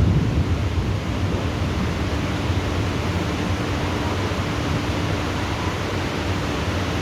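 Heavy rain falling steadily in a thunderstorm, as an even hiss, with the last of a thunder rumble dying away in the first second.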